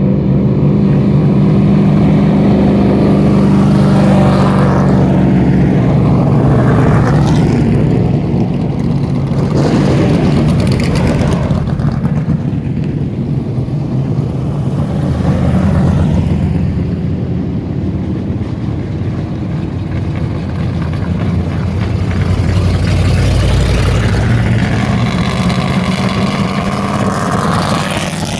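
Race car engines running loudly as the cars go by at parade pace, the revs rising and falling several times.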